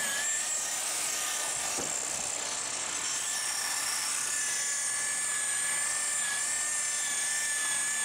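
A small high-speed motor whining steadily at an even pitch, with a hiss over it.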